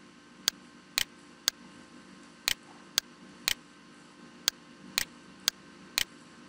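Computer mouse clicking: about ten sharp clicks, spaced about half a second apart, over a faint steady hum.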